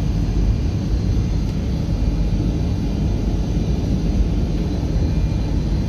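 Steady low rumble of a high-speed passenger train running at speed, heard from inside the passenger car.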